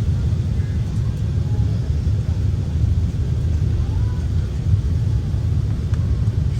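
Steady low rumble inside the cabin of an Airbus A380, with no rise in pitch or level.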